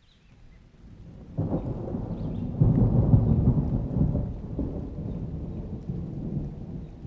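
A thunderclap rumbling over steady rain: the low rumble swells, breaks in sharply about a second and a half in, is loudest about three seconds in, then rolls slowly away.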